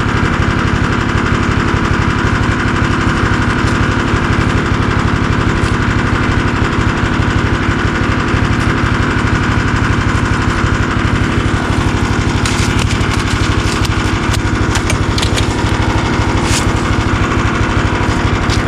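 Small engine running steadily at a constant speed with a fast, even pulse, and a few light clicks over it in the second half.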